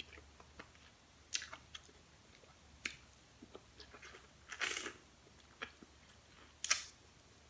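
Eating sounds close to the microphone: chewing and wet lip smacks while eating tender stewed turkey neck meat off the fingers. There are several short sharp smacks, and a longer one about five seconds in.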